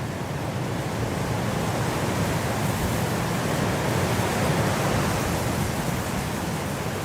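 Winter wind blowing as a steady rushing noise, swelling about halfway through and easing off again.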